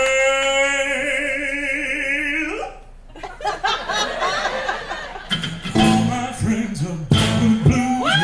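Live rockabilly band: a long held note that wavers at the end and cuts off, a short lull, then the full band coming in with a steady rhythm and bass.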